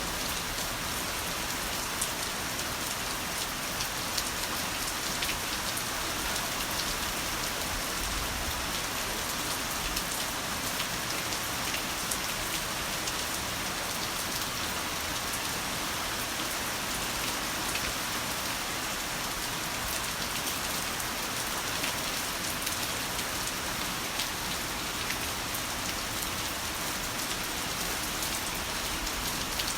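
Heavy rain falling steadily on a surface: a dense, even hiss of drops with scattered sharper drop ticks.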